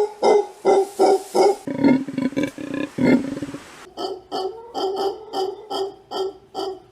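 Leopard giving its sawing call: a series of short, rasping grunts repeated about three times a second, with a pause about halfway through before a second series.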